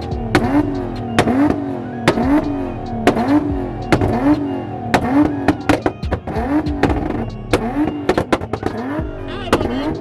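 Car engine held against a two-step launch limiter, its revs rising and falling in a regular cycle about once a second, with sharp exhaust pops and cracks on each cycle.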